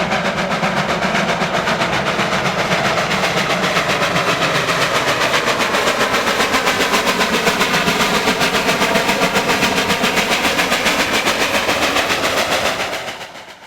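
Steam locomotive working at speed: a loud, fast, even run of exhaust beats, about five a second, that fades out near the end.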